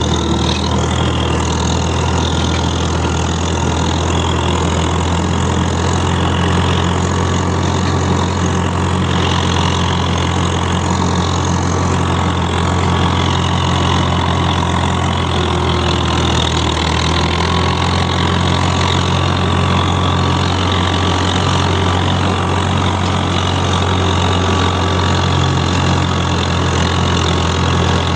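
Tractor engine idling steadily, an even low hum with no change in speed.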